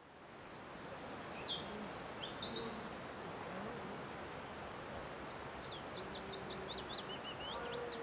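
Outdoor nature ambience fading in: a steady background hiss with a small bird calling over it. There is a short chirping phrase about two seconds in, and a quick run of high, sweeping notes from about five seconds in.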